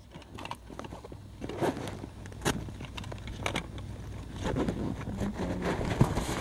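Low, steady rumble of a car running, heard from inside the cabin, with scattered clicks and knocks of the camera being handled against the seat.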